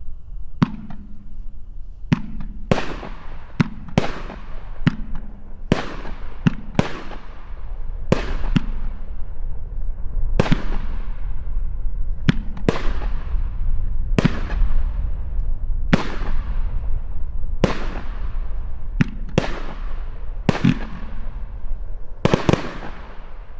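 200-gram multi-shot aerial fireworks cake firing its shots in quick succession: a long run of sharp bangs, about one a second, each trailing off as it fades.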